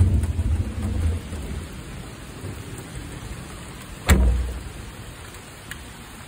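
Steady light rain falling on a garden, with a low rumble that dies away in the first second and one sharp knock about four seconds in.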